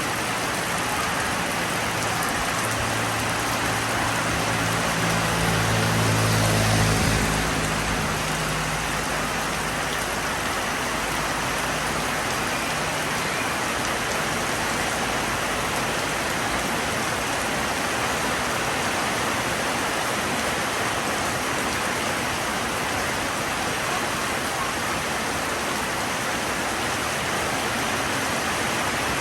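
Steady rain falling on a surface, an even hiss without a break. In the first several seconds a low rumble swells and fades away beneath it.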